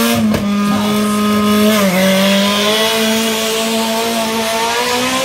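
Yellow Toyota Corolla AE86 drag car's engine at full throttle, launching off the line and pulling away down the strip. It holds a high, steady pitch, dips about two seconds in at a gear change, then climbs slowly again.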